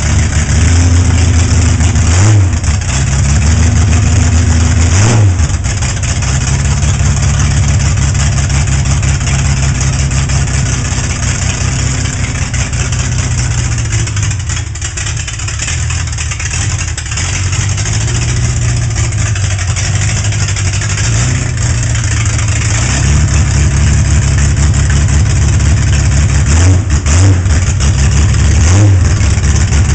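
Higher-compression straight-six engine with triple carburettors and a performance cam, idling with brief throttle blips: two early in the stretch and two more near the end, settling back to idle after each.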